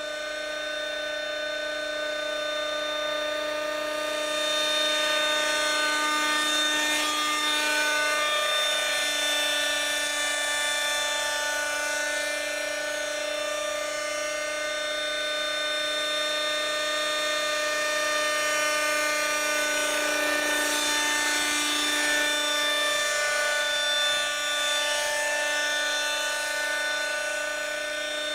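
Schlüter Magic radio-controlled model helicopter flying, its small two-stroke glow engine and rotor giving a steady high-pitched buzz. Twice the pitch dips and comes back up as the model moves past.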